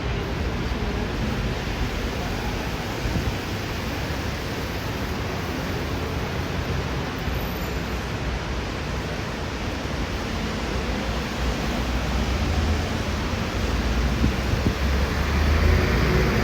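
Street ambience of traffic on wet pavement: a steady hiss of tyres and engines, with a low rumble swelling in the last few seconds.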